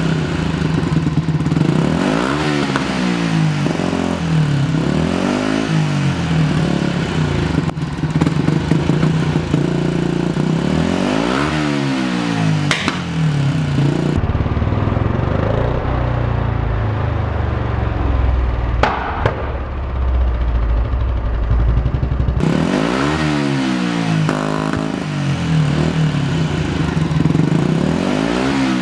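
Yamaha MT-125's single-cylinder four-stroke engine revved over and over through an Akrapovic titanium exhaust with the dB killer fitted, the revs climbing and dropping every second or two. A few sharp pops of backfire come on the overrun. For several seconds in the middle the sound turns duller.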